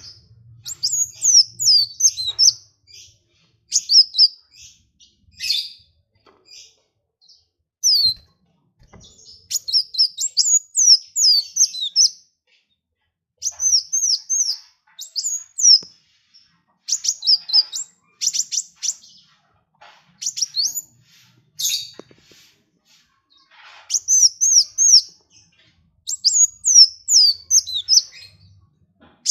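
A small songbird singing in quick phrases of high, rapid chirps that each sweep downward, a new burst every second or two with short pauses between.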